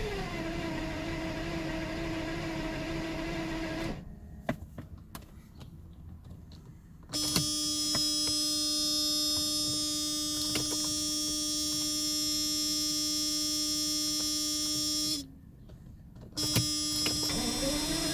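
1992 Mercedes 600SEL's V12 being cranked on the starter without firing: a steady starter whine in three cranking attempts, the first stopping about four seconds in, the second running for about eight seconds, the third spinning up near the end. The engine cranks but doesn't catch, which the owner puts down to a lack of ignition.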